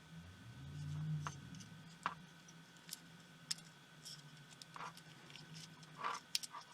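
Small clicks and scratches of tools and fingers working on the tiny parts of a pico projector under disassembly, over a low hum that swells about a second in.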